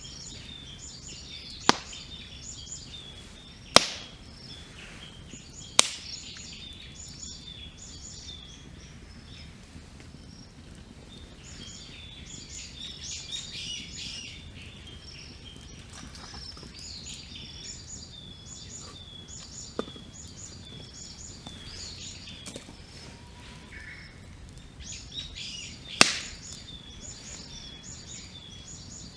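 Wood campfire crackling, with a few loud, sharp pops, three in the first six seconds and one near the end, under small birds chirping in rapid, repeated bouts throughout.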